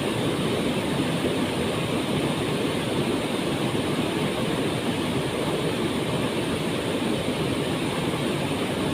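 Waterfall: a steady, deep rush of falling water, even in level throughout.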